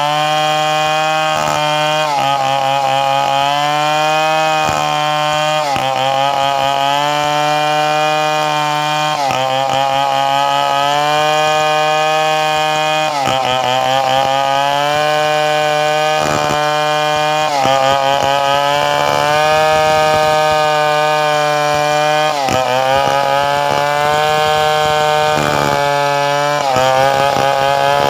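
Two-stroke chainsaw running at high revs, its pitch sagging briefly every few seconds as the chain bites into the wood, then climbing back.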